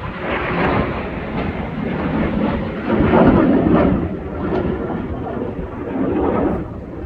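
Aircraft flying past: a loud, uneven rumble that is strongest about three seconds in.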